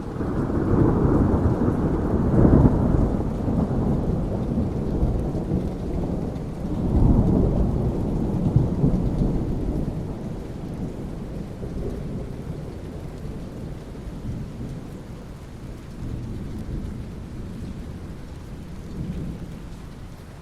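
Thunder rolling over steady rain. The rumble swells twice in the first half, the second about seven seconds in, then dies away to faint rumbles under the rain.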